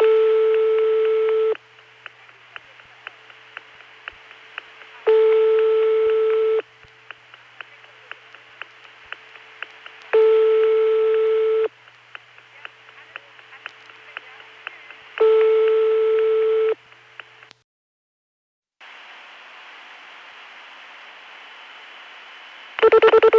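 French telephone ringback tone heard over a recorded analog long-distance call: four single rings of about a second and a half, one every five seconds, with faint regular clicking on the line between them. After a brief dropout there is steady line hiss, then a short loud tone burst near the end.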